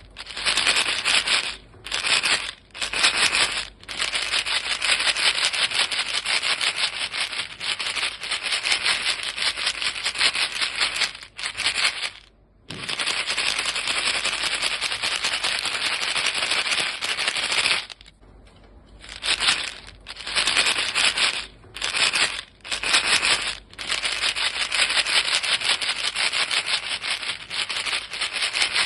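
Box of chewing gum pellets shaken hard, a dense fast rattle that stops briefly several times: twice in the first few seconds, once about twelve seconds in, and in a run of short gaps after about eighteen seconds.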